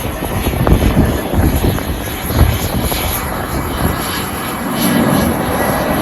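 Jet engines of a Peach Airbus A320-family airliner running steadily, with gusty wind buffeting the microphone in irregular low thumps.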